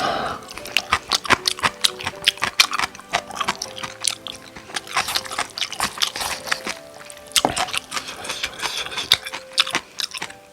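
Close-miked eating sounds, many quick wet clicks of chewing and slurping cup noodles, over soft background music.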